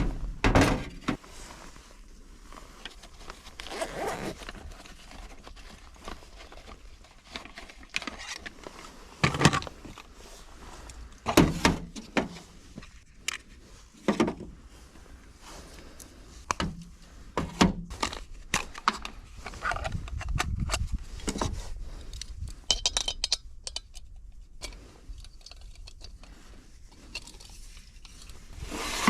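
Camping gear being handled and set down: irregular knocks, scrapes and clinks, a dozen or so sharp knocks spread through the stretch, with a low rumble about two-thirds of the way in.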